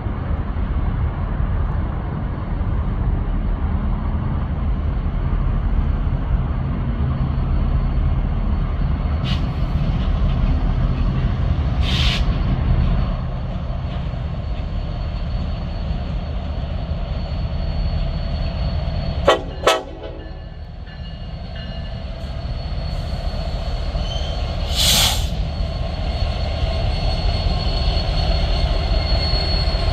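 Train rolling past with a steady loud rumble of wheels on rails, two short high hisses about twelve and twenty-five seconds in, and a quick run of sharp knocks about nineteen seconds in.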